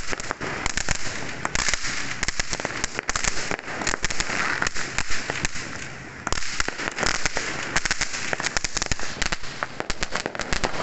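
Dense fireworks going off, a continuous rapid crackling of many small bangs, easing briefly about six seconds in before picking up again.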